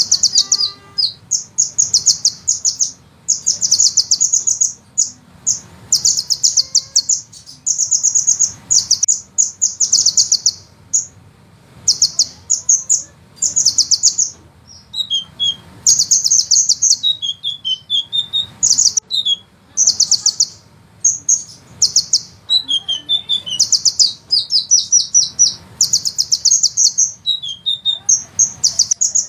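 Sunbird song: rapid, high-pitched trilled rolls repeated in quick succession with short gaps, mixed with short lower chip notes.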